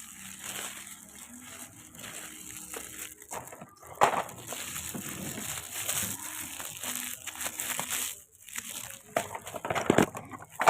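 Rustling, crinkling handling noise with scattered clicks, and a sharp knock about four seconds in and another near the end.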